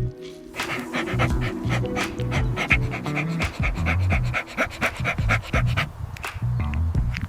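An animal panting in quick, even breaths, about four a second, over background music.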